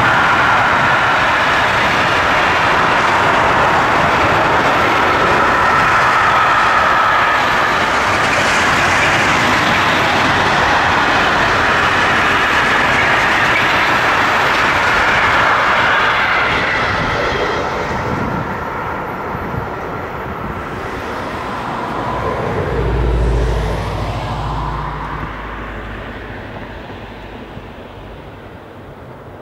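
Long intermodal freight train of container and swap-body wagons rolling past: a steady loud rumble and rattle of wheels on rail that fades away once the last wagons have gone by, a little over halfway through. A brief low rumble comes near the end.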